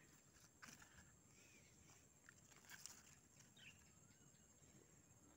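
Near silence outdoors, with a few faint distant bird chirps and two or three soft clicks.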